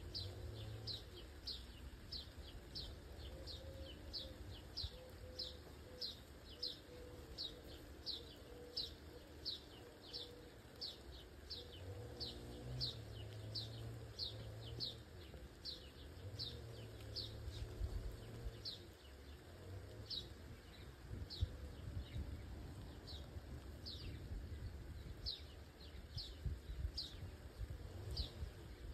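A small bird repeating one short, high, downward-sliding chirp over and over, about one and a half to two times a second, the gaps widening in the second half, over a low rumble.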